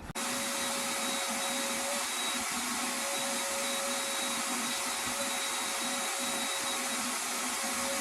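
Vacuum cleaner switching on and running steadily with a constant whine, sucking up cutting debris.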